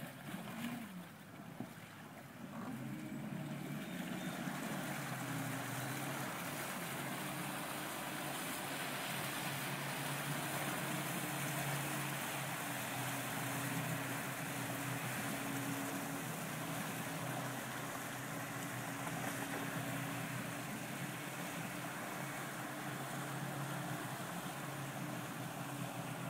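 Bryant 196 motorboat's engine speeding up over the first few seconds, then running steadily at speed, with water rushing along the hull.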